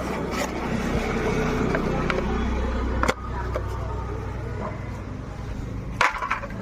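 An engine running steadily with a low hum, with sharp knocks about three seconds in and again near the end.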